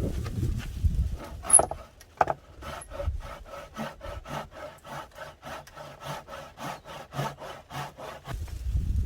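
Hand saw cutting through firewood, in quick, even back-and-forth strokes at about four a second; the sawing starts about two seconds in and stops near the end.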